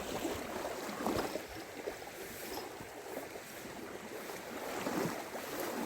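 Steady wind blowing over the microphone, with faint rustles and small knocks.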